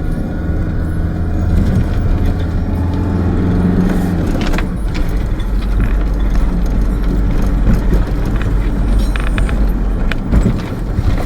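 Campervan engine running and road rumble heard from inside the cab, with loose items jangling and rattling as it drives over an uneven road.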